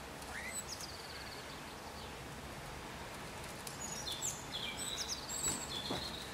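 Small birds chirping in short high calls, a few near the start and a cluster later on, over a steady outdoor background hiss.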